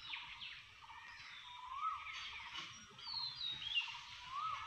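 Birds calling: many quick chirps, with a few short whistles that rise and fall in pitch.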